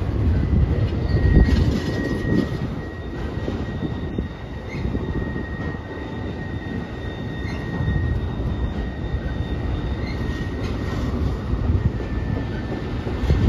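Train rolling past with a steady low rumble of wheels on rail and a thin, steady high-pitched wheel squeal through most of it.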